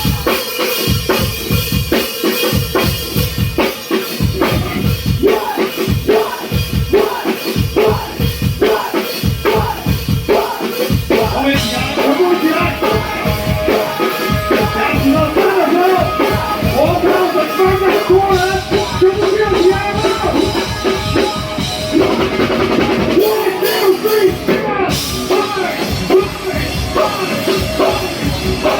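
Live rock band playing a song: a steady drum-kit beat, with singing coming in about twelve seconds in.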